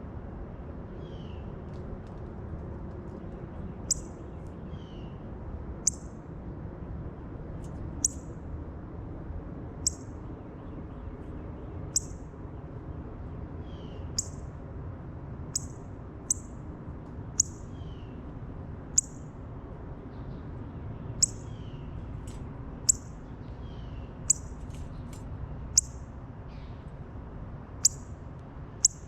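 Wild birds calling at a feeder: a short, sharp, very high call repeated about every two seconds, with fainter, lower downward chirps every few seconds, over a steady low outdoor hum.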